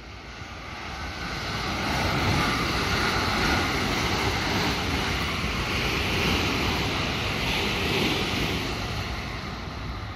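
JR West electric train passing through the station without stopping. The rush of wheels on rail and running noise builds over the first couple of seconds, holds for several seconds as the cars go by, then fades as the train pulls away.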